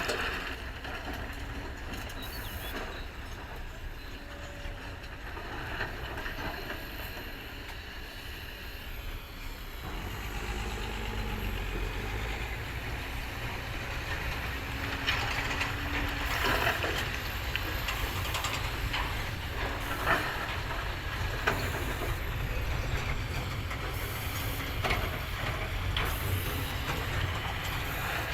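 A heavy machine's diesel engine running with a steady low rumble that grows louder about ten seconds in, with scattered knocks and clanks in the second half.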